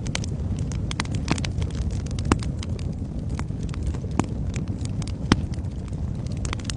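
Wood fire burning in a fireplace: a steady low rumble of the flames with irregular sharp crackles and pops, two louder pops at about two and five seconds in.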